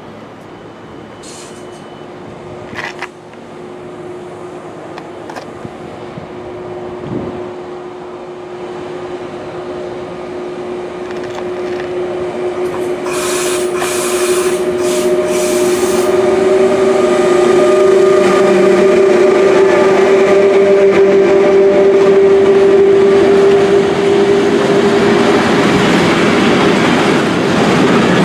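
A DB class 152 electric locomotive hauling an intermodal freight train of trailers on pocket wagons approaches and passes close by, its steady hum growing louder throughout. A few short high hissing bursts come about halfway through, and the rolling noise of the wagons swells near the end.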